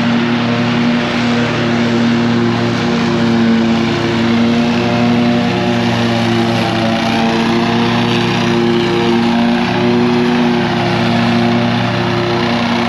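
Lawn mower engine running steadily at a constant high speed while mowing.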